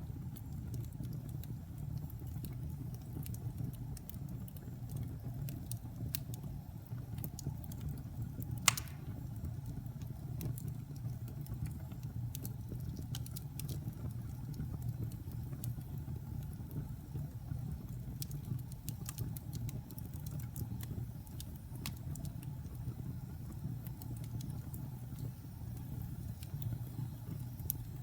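Fire burning in a fireplace: a steady low rumble of flames with scattered small crackles, and one sharp louder pop about a third of the way through.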